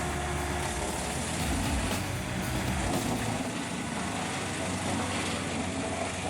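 Vermeer BC2000 woodchipper's engine running steadily: a low hum under a constant wash of noise.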